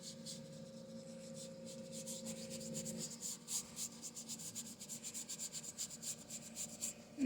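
Paintbrush scrubbing acrylic paint onto a canvas in quick zigzag strokes, a rapid scratchy brushing that builds up about a second and a half in.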